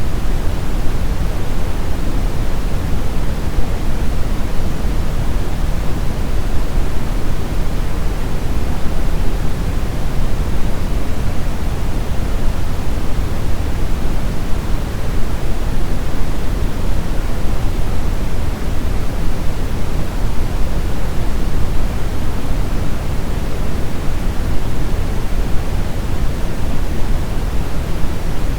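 Steady brown noise: an even, unbroken rushing hiss weighted heavily toward the low end, with the treble rolled off.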